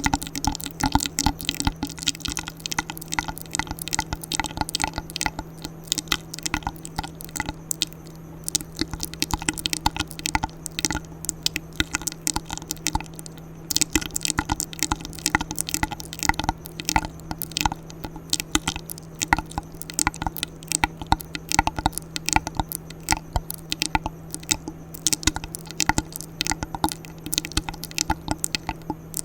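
Close-miked ASMR mouth sounds: a rapid, continuous stream of wet clicks, pops and smacks, over a steady low hum.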